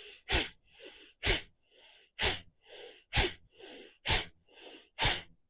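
Bhastrika (bellows breath): six forceful, explosive exhalations through the nose, about one a second, each followed by a softer quick inhalation, in a steady pumping rhythm.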